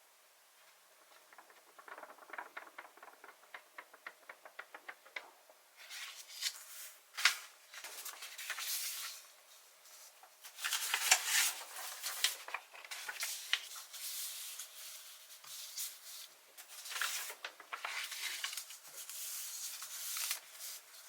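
Paper and sticker sheet being handled: a quick run of small ticks, then irregular crinkling and rustling of paper with sticker backing being peeled.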